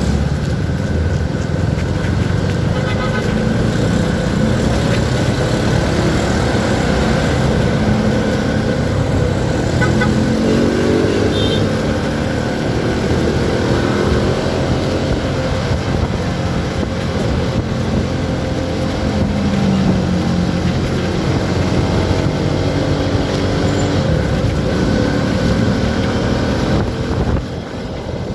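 Motorcycle riding, heard from the bike: the CFMoto 300SR's single-cylinder engine running with wind noise, its pitch rising and falling with the throttle.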